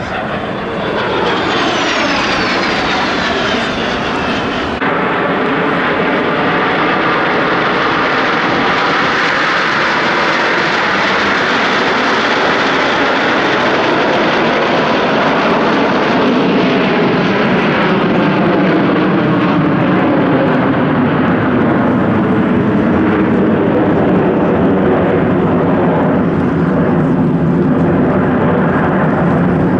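Aermacchi MB-339 PAN jets flying past: in the first few seconds a high turbine whistle falls in pitch as they go by, then a steady, loud rushing jet noise carries on.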